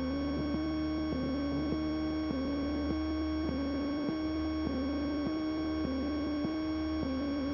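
Cessna 172N's engine and propeller at takeoff power, heard through the aircraft's intercom audio feed as a steady drone. An electrical whine runs with it, and the main tone wavers in a repeating cycle about every half second.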